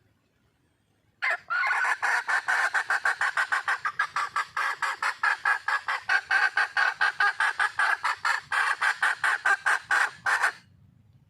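Wild red junglefowl hen giving a long, fast run of clucks, about five a second, starting about a second in and stopping near the end: the hen calling for a mate.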